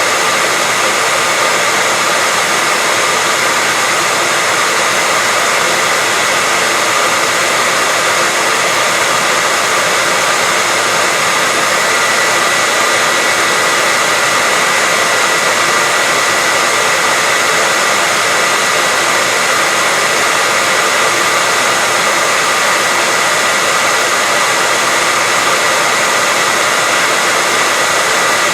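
Hair dryer running continuously: an even, loud rush of air with a steady whine from its fan motor.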